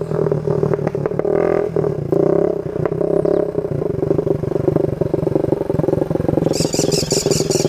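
Motorcycle engine running with a rapid, even firing beat, its note holding fairly steady. A higher rattling hiss joins near the end.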